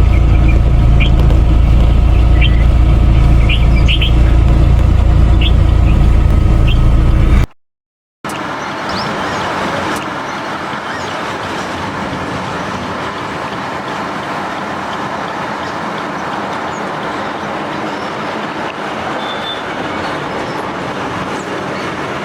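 Loud, steady low rumble of a running motor or traffic, with short high bird chirps over it. After a sudden cut about seven seconds in, a steady hiss of outdoor background noise follows, with a few scattered bird chirps.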